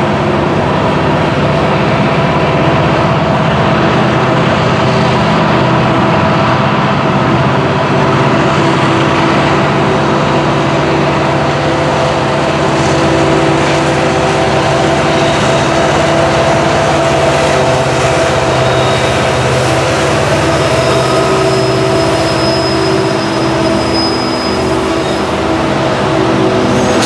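Freight train passing: loaded covered hopper cars rolling over the rails, joined by the steady drone of the rear helper diesel locomotives, led by an EMD SD70ACU, running under load as they push the train up the grade and go by. A faint thin high squeal comes in about three quarters of the way through.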